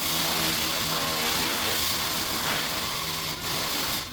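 Air-powered shop tool running: a loud, steady hiss of compressed air over a low hum, cutting out briefly about three and a half seconds in.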